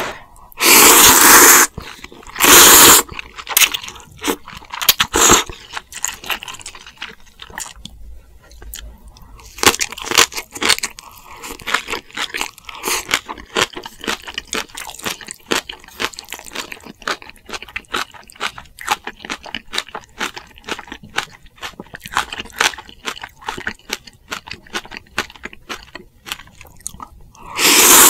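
Close-miked eating of spicy ramen and kimchi: steady crunching and chewing, with two loud slurps of about a second each near the start and another near the end.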